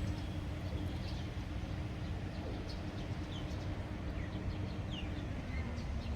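Small birds chirping in short, quick, falling calls, scattered throughout, over a steady low hum.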